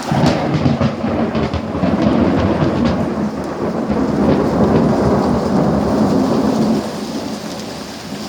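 A thunderclap that breaks in suddenly, then rolls on as a loud, low, rumbling peal of thunder for about seven seconds before fading near the end. Steady rain runs underneath.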